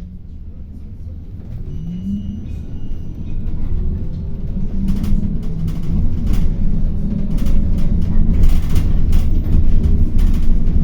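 City bus heard from inside the passenger cabin, driving with a low rumble that grows louder. Its engine pitch rises about two seconds in, and from about halfway the body knocks and rattles repeatedly.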